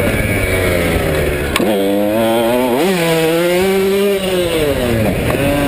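KTM 150SX two-stroke dirt bike engine revving up and down with the throttle, its pitch rising and falling several times, with a sharp click about one and a half seconds in.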